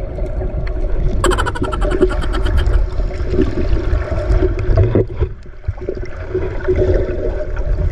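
Fishing boat's large engine running steadily with a deep rumble, mixed with wind and water noise; a short hissy rush comes about a second in.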